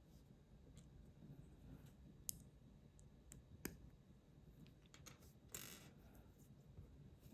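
Small plastic building bricks being handled and pressed together: a few sharp clicks, the loudest about two and three and a half seconds in, and a brief scratchy noise of pieces shifting about five and a half seconds in.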